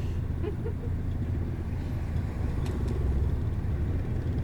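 Moving bus heard from inside the cabin: a steady low engine and road rumble, with a couple of faint ticks a little past the middle.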